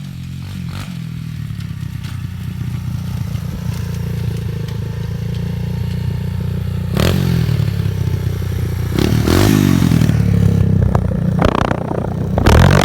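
Pit bike engine running and growing steadily louder, revved up sharply about seven seconds in, again about two seconds later, and once more near the end.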